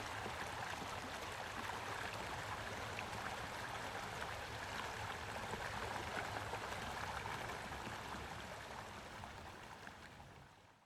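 Stream water flowing and gurgling over stones, fading out near the end.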